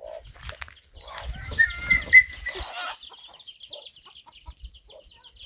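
Chicken squawking and clucking, the sharpest calls about two seconds in over rustling and low thumps, then a fast run of high clicking calls.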